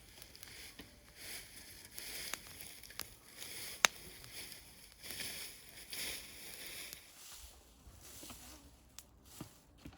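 Wood fire crackling, with scattered sharp pops over a soft hiss; the loudest pop comes about four seconds in.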